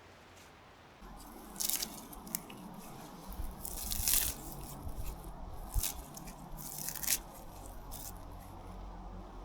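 Dry twigs and leaves crunching and cracking in irregular bursts, the loudest about four seconds in.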